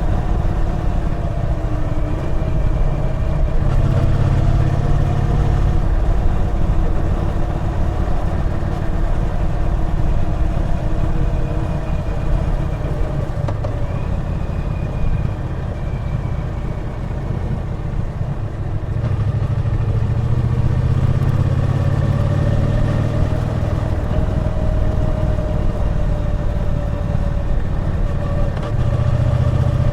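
Triumph Bonneville T120's 1200 cc parallel-twin engine running under way, its pitch slowly falling and rising as the throttle is eased and opened. It pulls harder and louder for a couple of seconds about four seconds in, and again from about nineteen seconds in and near the end.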